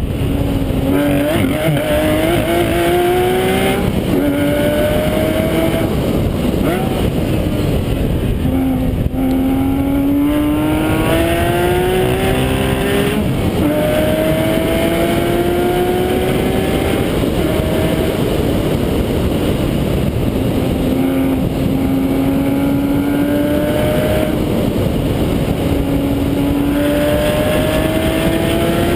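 Porsche 911 GT3 RS's flat-six engine driven hard on a race track, its note climbing through the revs and dropping back at each gear change, many times over. A steady rush of wind and road noise lies under it.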